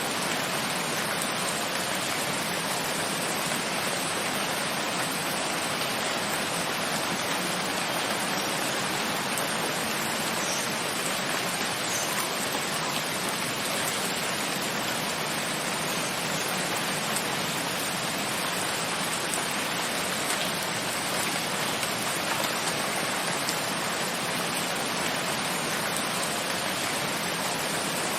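Steady rain falling, an even, unbroken hiss with a few faint drop ticks.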